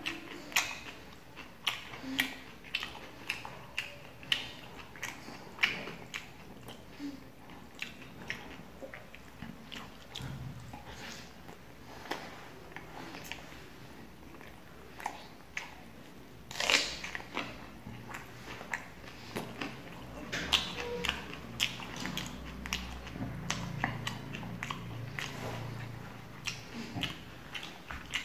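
Close-miked eating: a person chewing roti and curry eaten by hand, with wet chewing and mouth clicks in a steady run and one louder crunch a little past the middle.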